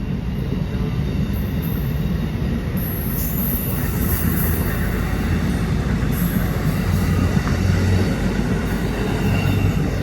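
Tri-Rail commuter train rolling out of the station, a steady heavy rumble of wheels on rail. A thin, high wheel squeal rises over it a few seconds in.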